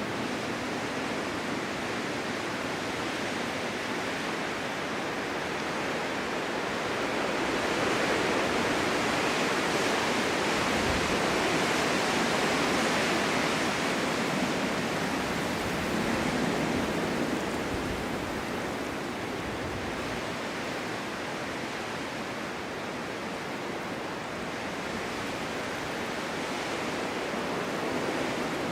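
Strong winter wind blowing snow, a steady rushing that swells louder for several seconds about a third of the way in, then eases back.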